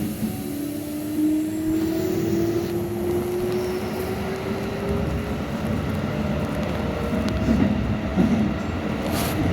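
Keikyu 600 series electric train running, with the rumble of wheels on track and a motor whine that rises in pitch through the first half as the train picks up speed.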